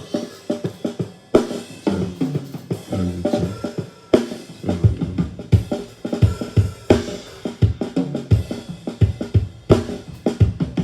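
Recorded drum kit played back from a multitrack, kick and snare hits in a steady groove with a bass line underneath.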